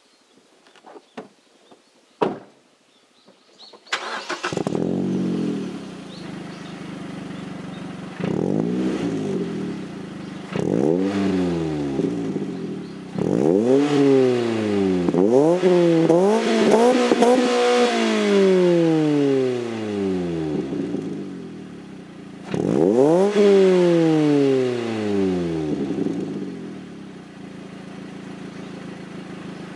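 Mazda NC2 Roadster's four-cylinder engine through an aftermarket N ZERO spec muffler: it starts about four seconds in, idles, then is revved in a run of quick blips, one held briefly at the top, and once more near the end before dropping back to idle.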